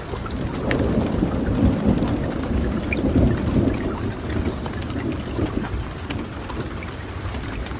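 Rolling thunder under steady rain: a low rumble swells about a second in and dies away over the next few seconds, with the hiss and scattered drips of the rain going on throughout.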